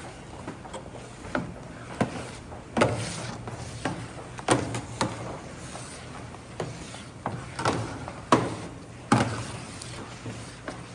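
Kitchen utensils and cookware being handled: about a dozen sharp, irregular knocks and clacks, over a steady low hum.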